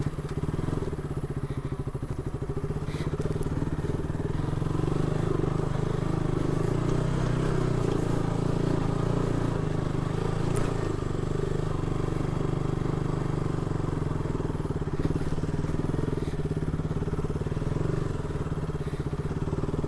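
Single-cylinder motorcycle engine pulling steadily under load up a steep rocky track. Faint crunching from the tyres on loose stones runs under it, with the bike slipping and sliding.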